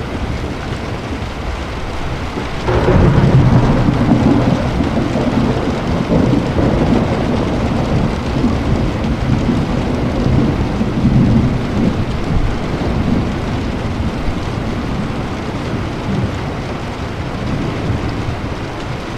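Thunderstorm: steady rain with a clap of thunder about three seconds in that breaks into a long rolling rumble, fading slowly through the rest.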